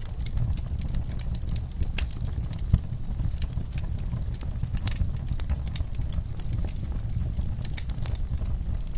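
Wood fire in a fireplace crackling: irregular sharp pops and snaps over a steady low rumble of the flames, with one louder pop about three seconds in.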